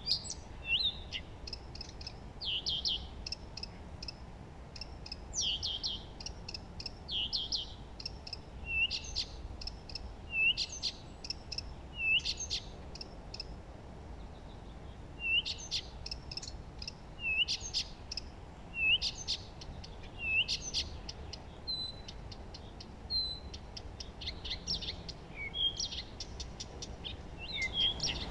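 Songbirds singing and chirping: short high notes and hooked calls, one every second or so, over a faint low background hiss.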